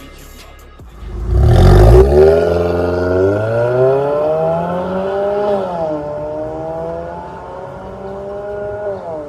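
Ford Focus 1.6 Mk3.5 with an MS-R valved exhaust muffler, accelerating hard. The exhaust note comes in loud about a second in and rises steadily in pitch. It drops at an upshift about six seconds in, then climbs again until a second shift near the end.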